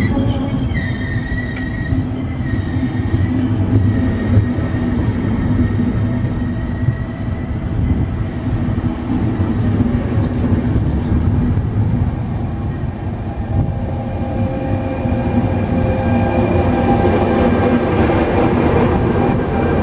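Train running on the track with a steady heavy rumble. A high wheel squeal sounds in the first few seconds and fades out.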